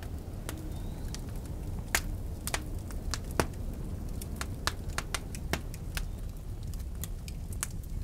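Wood logs burning in a fireplace, crackling with irregular sharp pops over a low steady rumble of the flames. Two pops, about two and three and a half seconds in, stand out loudest.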